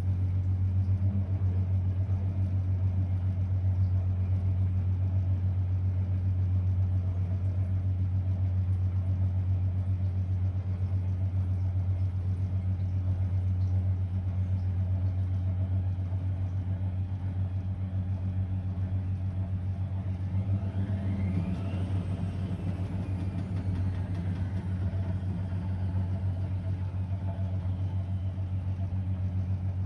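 Blomberg WA391 front-loading washing machine running mid-cycle on a 90 °C boil wash, with a steady, loud low hum. Around two-thirds of the way through, a faint whine rises and then falls away.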